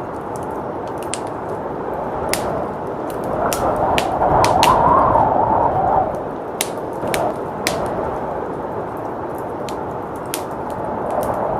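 Wood fire crackling with many sharp, irregular pops, over steady blizzard wind that swells into a gust about four to six seconds in.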